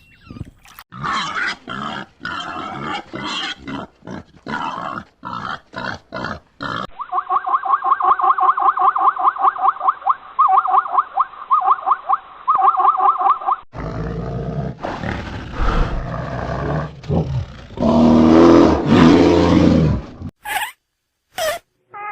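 A run of animal calls from several different recordings: first a series of short separate calls, then a fast string of pulsed calls for several seconds, then loud, deep roaring and grunting from a large animal.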